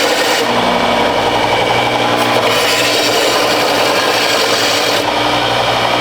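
Power tool cutting stainless steel exhaust pipe: a loud, steady, rasping cut that carries on unbroken.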